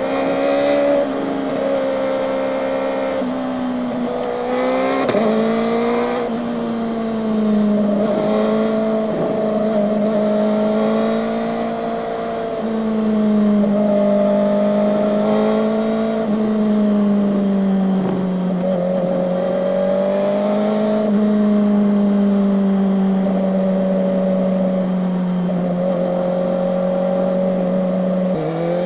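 Kawasaki ZX-4RR's 399 cc inline-four running at steady mid-range revs, an even high engine note that rises and falls gently with the throttle. It gives short rising revs in the first few seconds and again right at the end.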